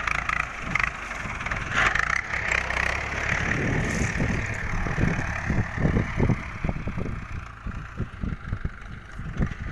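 Ford 6600 tractor's diesel engine running steadily, growing fainter in the second half, with irregular low thuds from about halfway on.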